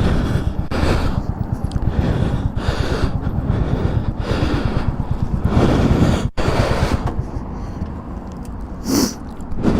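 Motorcycle engine running on the move, with wind buffeting the microphone. The sound cuts out briefly a little past six seconds in.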